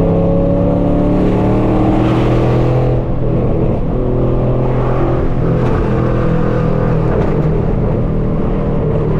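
Straight-piped 5th-gen Chevrolet Camaro SS V8 running steadily while cruising, its loud exhaust note drifting slowly in pitch, with a brief dip in level about three seconds in.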